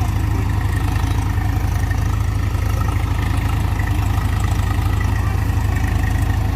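Diesel engine of heavy farm machinery running steadily, with a deep, rapid, even pulse and no change in speed.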